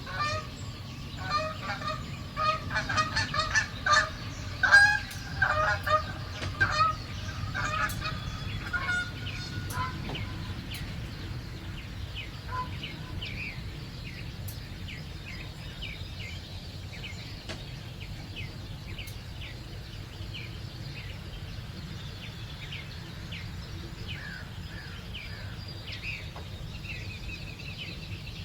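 Birds calling: a loud, rapid run of repeated pitched calls over the first ten seconds, then softer, scattered high chirps from small birds. A steady low background rumble runs underneath.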